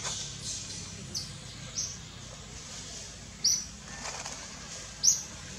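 A bird giving short, high chirps, four or five times at uneven gaps, over a steady background hiss.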